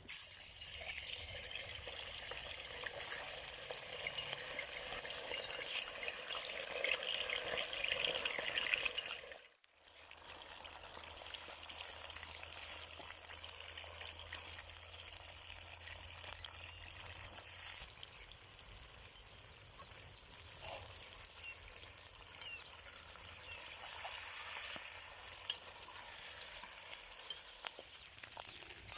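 Food frying in hot oil in a kazan, a steady sizzle and crackle. It drops out briefly about ten seconds in, then carries on.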